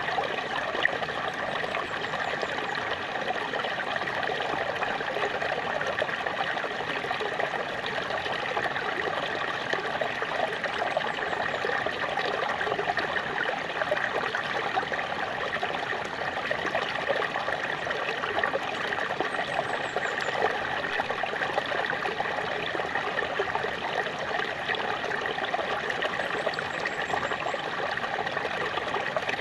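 Small waterfall: water splashing and trickling in a steady, unbroken rush.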